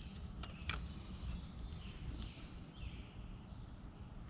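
Outdoor natural ambience: a steady high insect trill, with a bird calling briefly about two seconds in and a light click near the start.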